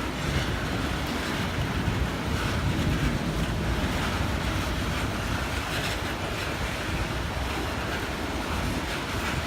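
Strong storm wind buffeting the microphone: a steady, heavy rushing noise.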